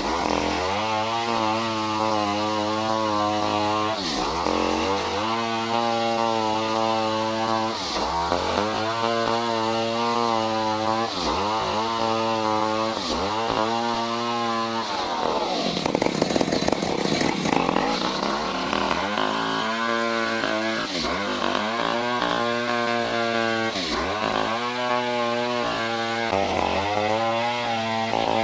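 Stihl 070 two-stroke chainsaw running at full throttle while cutting wood, its engine pitch sagging and recovering every few seconds as the chain bites. About halfway through, the engine bogs down deeper for a few seconds before picking up again.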